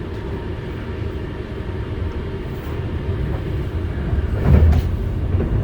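Intercity passenger train running, heard from inside the carriage: a steady low rumble of wheels on rails, with a louder thump about four and a half seconds in.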